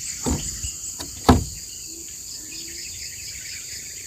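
Steady high chorus of crickets and other insects. Two dull thumps come in the first second and a half, the second one louder.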